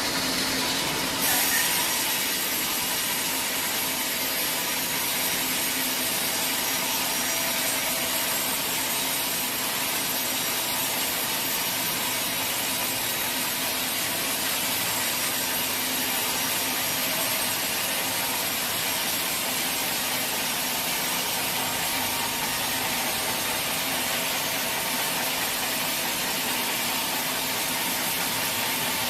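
Sawmill saw cutting through a teak log: a steady, noisy rasp that picks up about a second in and then holds even.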